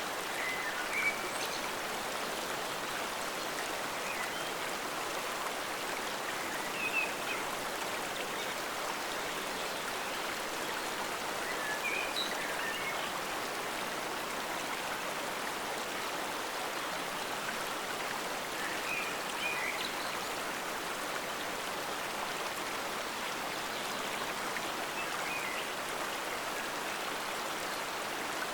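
Forest stream flowing steadily over rocks, an even rushing wash of water, with a few brief brighter gurgles standing out every few seconds.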